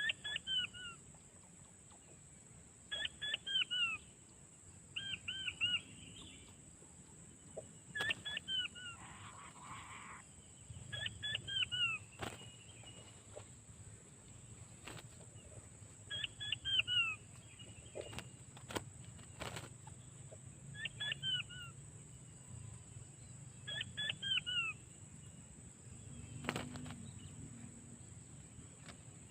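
Small quail, the puyuh batu (king quail), calling: eight short phrases of three or four high piping notes with falling ends, repeated every few seconds. A steady high whine of insects runs underneath, with a few faint clicks.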